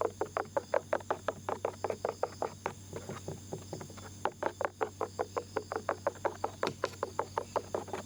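Small ear pick scraping rapidly against an ear, about six strokes a second, easing off briefly about three seconds in before resuming.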